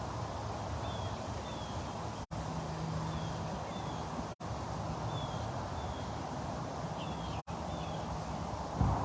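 Wind buffeting the microphone, a steady low rumble that swells near the end, with a bird in the background repeating short, falling chirps. The sound cuts out for an instant three times.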